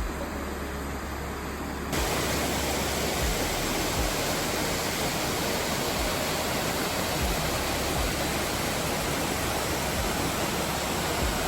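Steady rushing of a waterfall, a little quieter at first and suddenly louder about two seconds in.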